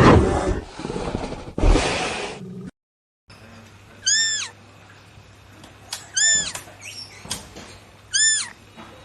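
A loud, rumbling roar trails off over the first two and a half seconds and cuts out. After a brief silence, a cat meows three times, about two seconds apart, each meow a short high call that rises and then falls.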